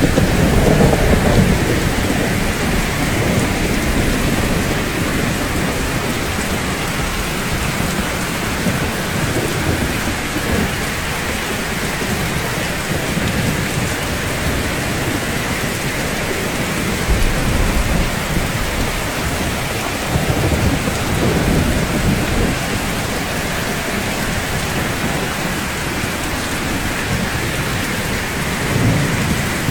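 Steady rainfall, with low rolls of thunder swelling up and fading a few times: near the start, around the middle and near the end.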